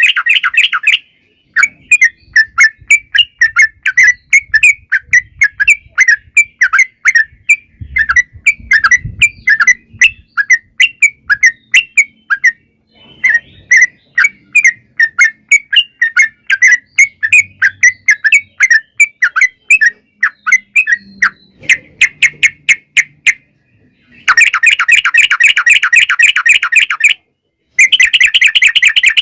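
Yellow-vented bulbul (trucukan) singing: a long run of short, loud chirps at a few per second, breaking into dense, rapid rolling trills (ropel) at the start and again near the end.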